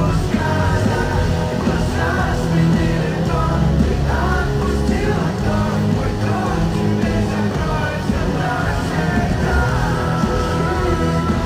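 Live rock band playing loudly, with heavy bass and a singing voice over it.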